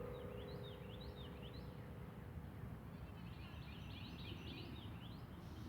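Small birds chirping in two runs of quick, repeated high calls over faint outdoor background noise. The last lingering tone of the bell tower's hymn fades away in the first couple of seconds.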